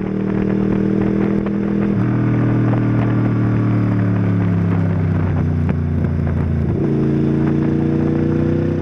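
Honda VFR800 VTEC's V4 engine running under way. Its note steps down about two seconds in and sinks slowly. It jumps back up near seven seconds with a gear change and then climbs slightly.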